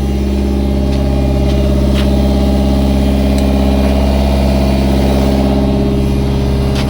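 Toro Groundmaster 4010-D's diesel engine running steadily, with a few light clicks over it.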